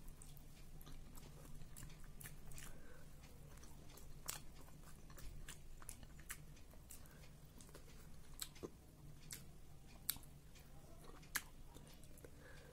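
Faint close-up eating sounds: soft chewing of curry-soaked potato, with scattered small mouth clicks and smacks, and finger-licking near the end. A low steady hum runs underneath.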